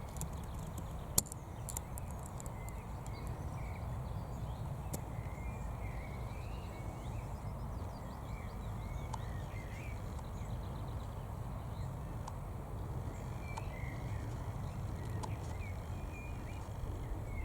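Small birds singing and calling in the background, short warbling phrases coming and going, over a steady low rumble. A single sharp click about a second in.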